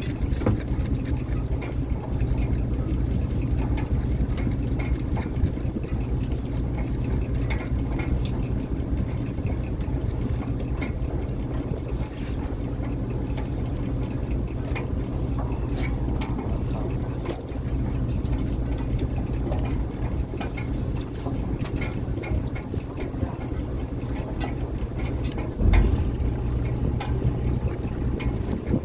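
Fishing boat's engine running steadily, with scattered knocks and clatter and one louder thump near the end.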